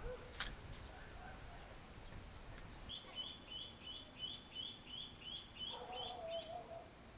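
Outdoor rural ambience with a bird giving a quick series of about ten short, high chirps, a few each second, and a lower call from another animal near the end, over a steady high hiss.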